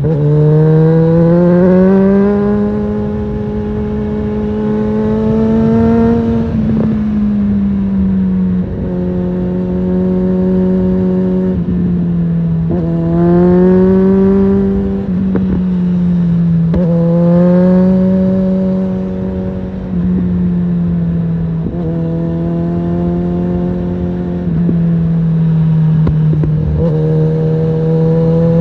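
2007 Suzuki GSF650 Bandit's inline-four engine through a Storm aftermarket exhaust, pulling under load. It rises in pitch several times and drops back with gear changes, running steadily at part throttle in between.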